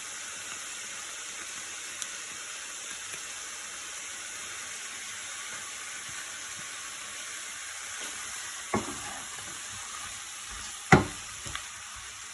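Tiger prawns and mixed vegetables frying in a wok with sauce, a steady sizzle throughout. Two sharp knocks sound near the end, the second the loudest.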